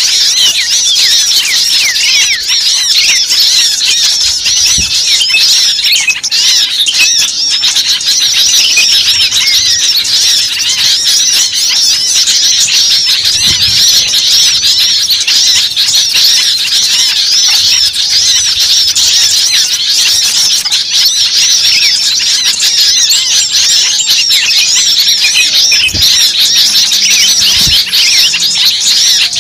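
Bird-lure recording: a dense, frantic chorus of many small birds calling at once, with rapid high-pitched chirps, twitters and squeaky notes running without a break.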